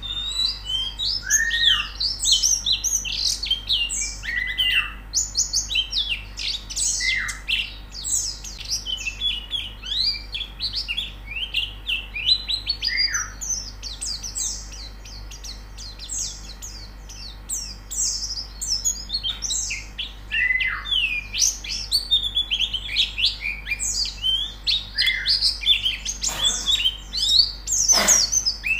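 Several white-eyes singing at once: dense, fast, overlapping high chirping with occasional lower downslurred call notes. Two sharp clicks sound near the end.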